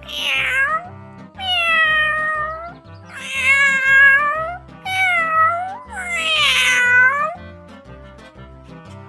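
Domestic cat meowing five times in a row, long drawn-out meows, over background music with a steady beat.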